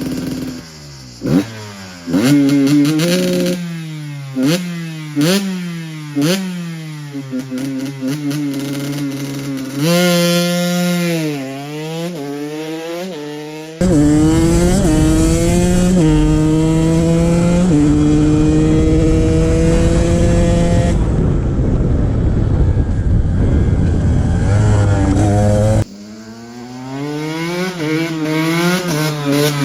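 KTM XC-W 125 single-cylinder two-stroke motard engine being ridden hard, revving up through the gears with its pitch climbing and dropping back at each shift. Through the middle it holds a steadier high-speed note under a loud rushing noise, then goes back to revving up and down near the end.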